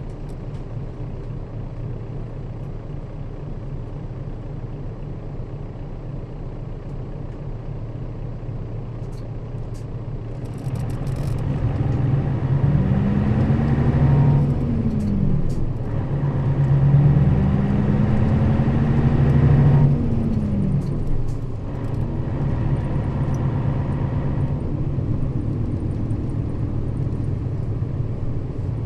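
Nissan Diesel KL-RA552RBN route bus's diesel engine running, heard from inside the bus. About eleven seconds in it gets louder, and its pitch climbs and falls back twice as the bus pulls away through the gears, then it settles to a steady cruise.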